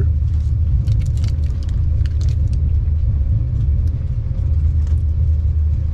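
Steady low rumble of a moving train heard from inside the carriage, with a few brief crackles about one to two and a half seconds in.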